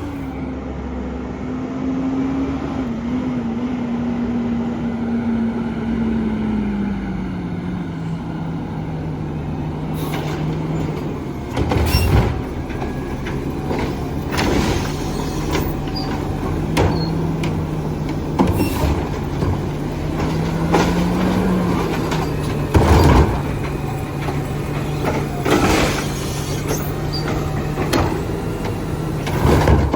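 Garbage truck engine running fast while the hydraulics work, then settling to a lower steady pitch. About eight loud bangs and clunks follow, a few seconds apart, as the barrel is dumped and knocked against the truck.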